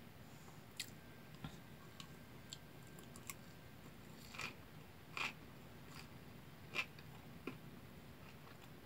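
A person chewing a big mouthful of kimbap with the mouth closed: faint chewing with scattered wet mouth clicks, a few louder ones in the middle.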